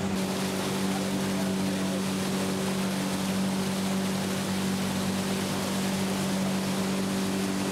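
Motorboat engine running at a steady speed, a constant hum heard from on board, with a steady rush of wind and water.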